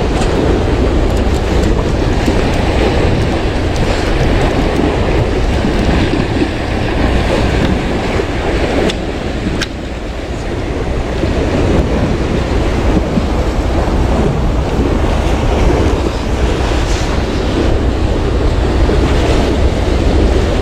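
Steady, loud rumbling of wind on the microphone mixed with sea waves, with a few faint clicks.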